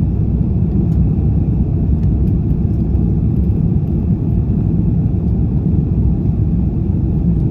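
Steady low rumble of an Airbus A330-300 airliner heard from inside the passenger cabin.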